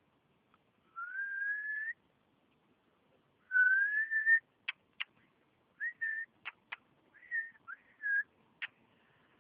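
High whistling: two long, slightly rising whistles, then a run of short chirps at the same pitch with sharp clicks scattered among them.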